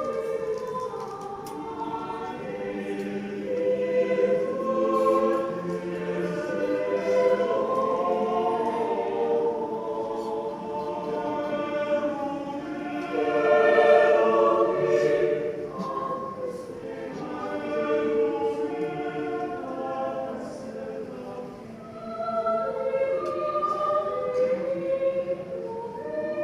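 A choir singing in several-part harmony, with long held chords that swell and fade, loudest about halfway through.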